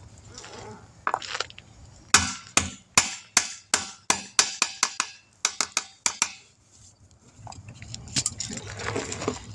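A quick run of about a dozen sharp metal hammer taps, roughly three a second, each with a short ring: a wheel-weight hammer tapping balance weights onto the wheel rim during tire balancing.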